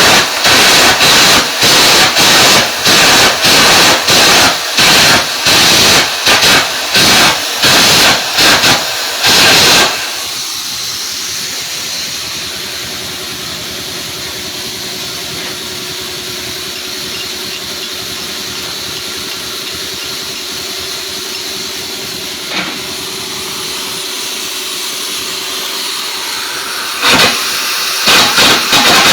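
Electric arc welding: loud, sputtering crackle in quick, uneven bursts for about ten seconds, then a steady hissing sizzle with a faint hum, with the loud crackling returning near the end.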